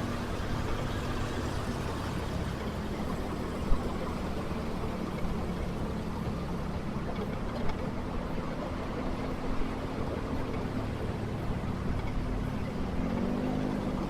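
Motorcycle engine running steadily in traffic, with a broad hiss of road and traffic noise around it. Its pitch shifts briefly near the end as the throttle changes, and there is one sharp knock about four seconds in.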